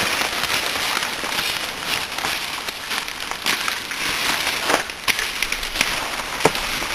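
Dense crackling and rustling of dry leaves and twigs, with many small snaps and a few sharper cracks.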